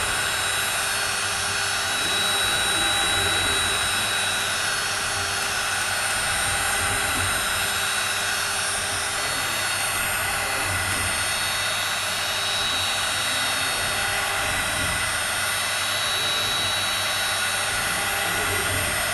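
3.5 kW air-cooled HQD spindle of a CNC wood router running at a steady speed: an even rushing of its cooling fan with several steady high whining tones over it.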